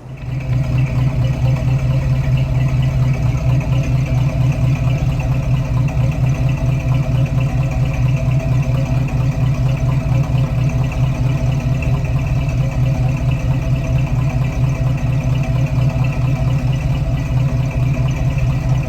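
Ford 390 FE V8, freshly rebuilt and installed, running at a steady idle on open headers with no exhaust pipes fitted, a loud, low, even pulsing.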